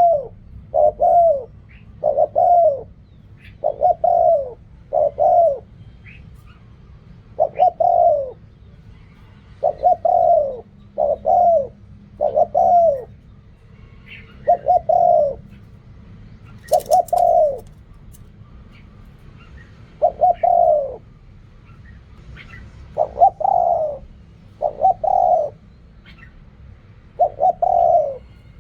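Spotted dove cooing: loud, repeated two- and three-note phrases, each note falling in pitch, with short pauses between phrases.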